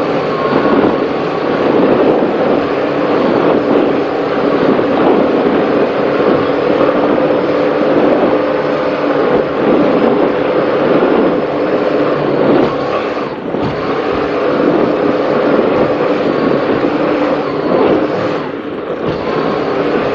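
Twin engines of a racing powerboat running hard at speed through rough sea, a steady engine drone under loud wind and water rush; the noise dips briefly twice in the second half.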